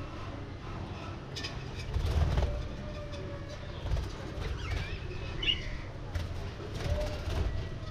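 Budgerigars in an aviary giving short chirps and warbles, with sharp flutters and clicks and a low rumble underneath.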